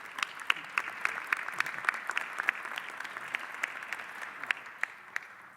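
Audience applauding for an award recipient, dense clapping that fades out near the end.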